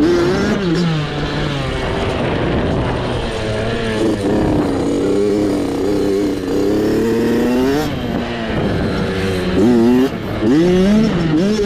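Small off-road motorcycle engine running with the throttle worked on and off, its pitch rising and falling over and over, with several quick revs near the end.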